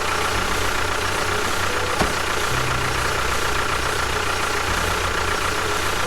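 A small motor running steadily, with a constant high whine over a loud rushing, grinding noise.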